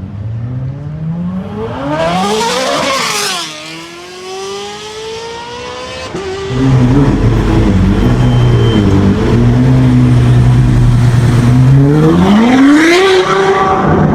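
Ferrari with a straight-pipe exhaust accelerating hard, its engine note climbing and then dropping as it passes. A few seconds later, a louder straight-piped Ferrari engine holds a steady low note, then revs up sharply near the end.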